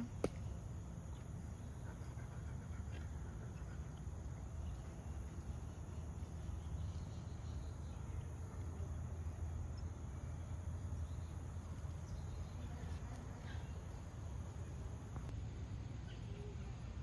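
Quiet outdoor ambience by a lake: a steady low rumble with faint, scattered chirps and ticks, and a single click right at the start.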